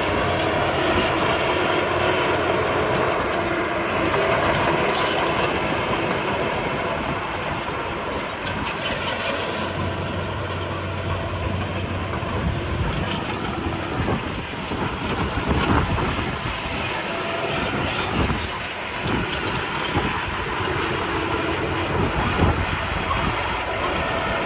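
Komatsu D31P crawler bulldozer working: steady engine noise, with its steel tracks clanking and squealing. A few sharper knocks come in the second half.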